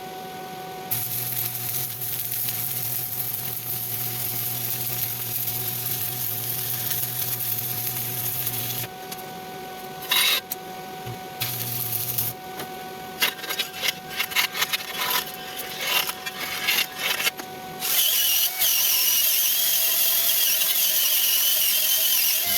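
Stick welding arc crackling and hissing on steel plate. Steady stretches of arc noise are broken partway through by a run of short on-off bursts, then the sound settles into a steady hiss near the end.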